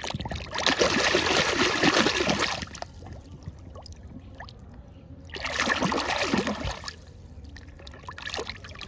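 Water splashing and trickling as a muddy toy vehicle is rinsed by hand, in two spells: a longer one at the start and a shorter one a little past the middle.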